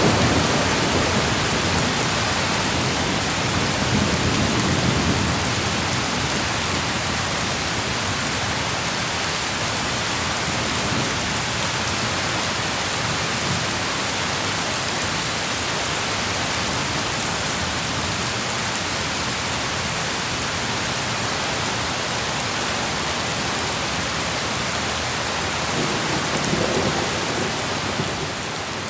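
Steady heavy rain hissing, with low thunder rumbles: one dying away at the start, another about four seconds in, and a softer one near the end.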